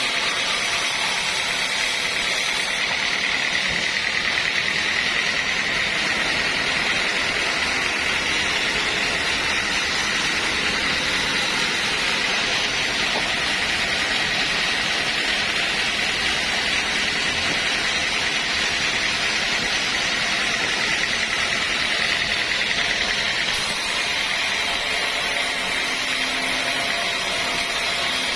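Sawmill machinery running steadily, with a continuous whine that strengthens about three seconds in and eases near the end.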